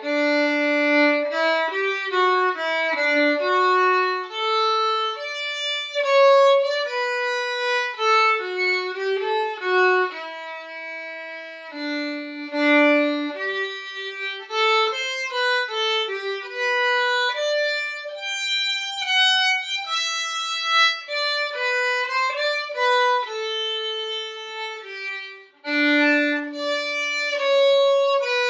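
A violin playing a method-book exercise melody: a steady run of separate bowed notes with a short break near the end before the phrase resumes.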